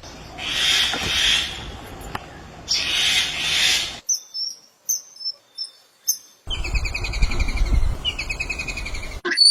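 Songbird calls: two hissy, buzzing bursts, then a scatter of short, sharp high chirps, then a rapid trill of repeated falling notes lasting a few seconds.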